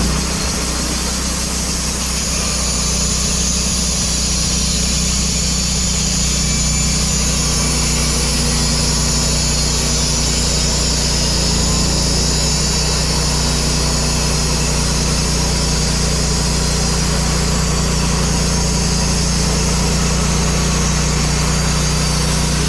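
Portable sawmill's gasoline engine running steadily at speed as the saw cuts lengthwise through a cherry log, a constant engine hum with a steady high hiss from the cut.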